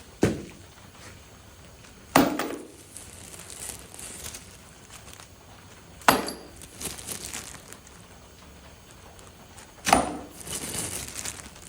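Four sharp clanks a few seconds apart, each with a short clatter after it: metal tools or engine parts being set down and handled.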